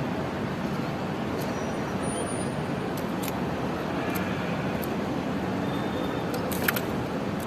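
Steady hum of road traffic, with a few scattered sharp clicks, the loudest near the end.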